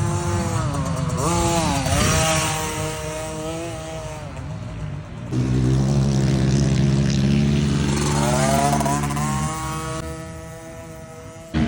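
Husqvarna TC50 mini motocross bike's small two-stroke engine revving up and down. About five seconds in, the sound switches abruptly to a steadier, lower note, and it climbs in pitch again later.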